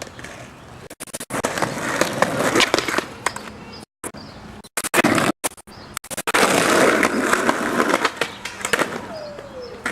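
Skateboard wheels rolling over hard ground, with sharp clacks of the board popping and landing, in two long rolling runs separated by abrupt cuts.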